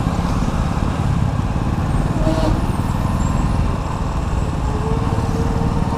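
Steady engine and road rumble from a moving vehicle, with no single event standing out.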